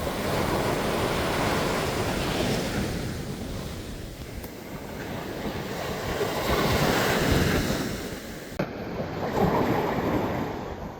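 Ocean surf: waves breaking and washing up the beach in slow swells, one surge after another, the biggest about two-thirds of the way in.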